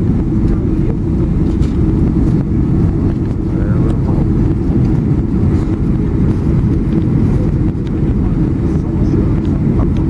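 Steady rumble of cabin noise inside a Boeing 767-300, engines and airflow, with a constant low hum.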